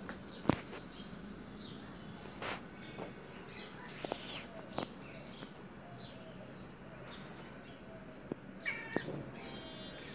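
Small birds chirping in the background, short high falling chirps repeated again and again. A few soft clicks and taps are mixed in, and a brief, louder, scratchy high sound comes about four seconds in.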